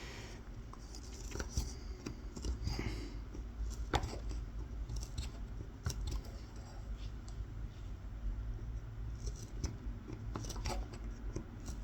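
Carving-knife tip scoring fine kolrosing lines into the surface of a wooden spoon: a run of short scratching cuts into the wood, with a few sharper clicks between them.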